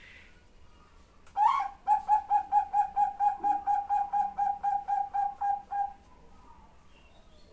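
Female zebra dove (perkutut bangkok) calling a male: a rapid run of about twenty short, even notes at one pitch, about four or five a second. It begins with a louder first note after about a second and a half and breaks off more than a second before the end.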